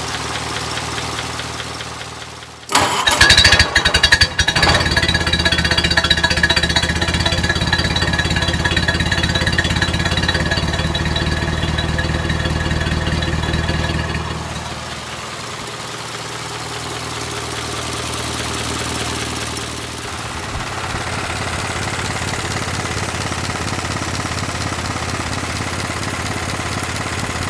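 A freshly rebuilt, broken-in 1932 Ford Model B four-cylinder side-valve engine running on a test stand with a steady exhaust rhythm. About three seconds in it gets louder, with a few sharp knocks, and around fourteen seconds it settles back to a quieter, even idle.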